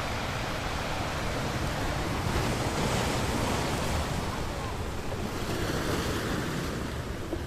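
Ocean waves breaking on a beach, a continuous surf wash that swells twice and eases off near the end.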